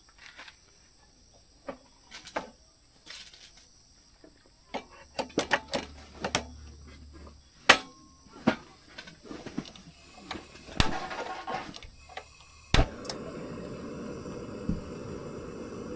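Insects chirping steadily in a high, continuous trill. Scattered sharp clicks and knocks come over it, and about thirteen seconds in a steady rushing noise begins.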